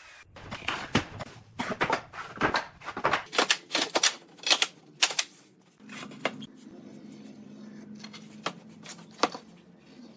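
Sharp knocks in quick succession, about two a second, for the first five seconds, then a low steady hum with a few single knocks over it.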